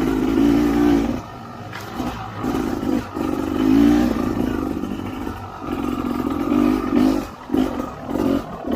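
Dirt bike engine revving up and down under changing throttle, with the chassis clattering over rough ground; toward the end the engine comes in short, choppy bursts. The rider says the bike is breaking up, which points to the engine misfiring or running rough.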